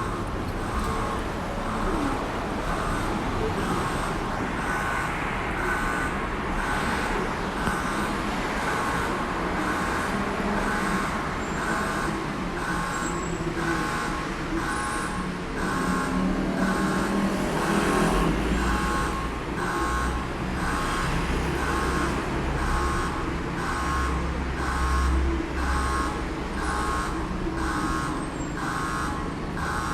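Station emergency alarm sounding, a multi-tone ringing pulse repeating about once a second: the signal that a platform emergency stop button has been pressed. A low rumble joins about eighteen seconds in and fades out after about twenty-six seconds.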